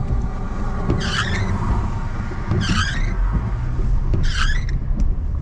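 Windshield wipers squeaking across the glass about every second and a half, over the car's steady engine and road noise.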